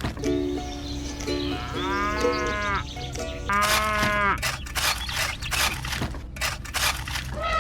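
A simple background melody with two long, arching animal-like calls, one about two seconds in and one about four seconds in.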